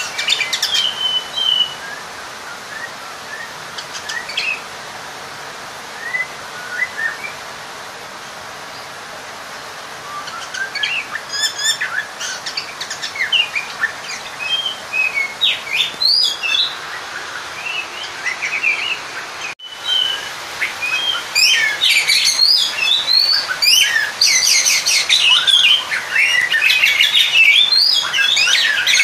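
Oriental magpie-robin (kacer) singing its challenging song at a rival: varied whistles, rising notes and chirps. The song is sparse at first, then turns loud and nearly continuous from about two-thirds of the way through.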